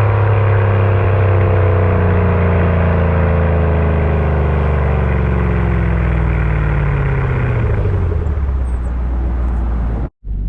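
Shelby GT500's V8 through a Borla Atak exhaust, its revs falling steadily as the car decelerates over about eight seconds. The sound cuts off abruptly near the end.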